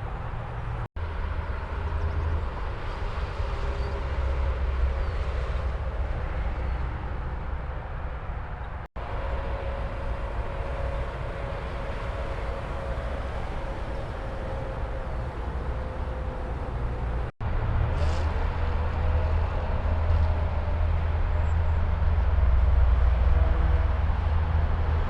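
Steady highway traffic noise, a low rumble of engines and tyres, broken by three brief dropouts where clips are joined; it grows a little louder after the last one.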